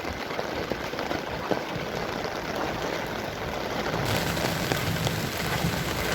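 Heavy rain falling, a steady hiss with scattered drop ticks. About four seconds in it grows fuller, with a low rumble rising under it.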